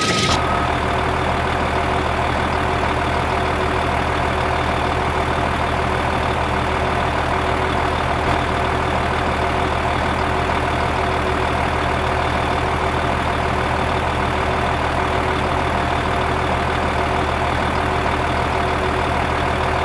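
Truck engine idling steadily, an added sound effect rather than the toy's own noise, running without any change in pitch or level.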